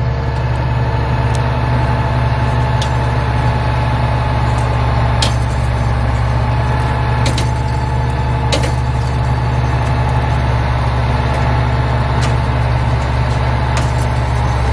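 A vehicle engine running steadily at idle, a constant low hum, with a few faint sharp ticks scattered through.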